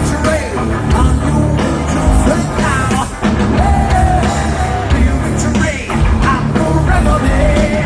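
Loud rock music with a singing voice over a heavy low end.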